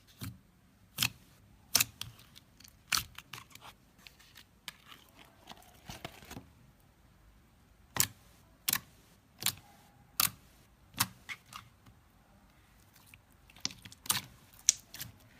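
Slime being pressed and poked, giving a string of sharp, irregularly spaced clicks and pops, some much louder than others.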